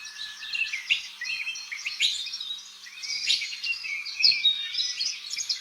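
Songbirds chirping and singing, many quick high chirps and short trills overlapping.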